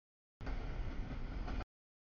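Rolling noise of a passing double-stack container train, heard as one chunk of a little over a second that starts and stops abruptly, with dead silence on either side: the audio feed is dropping in and out.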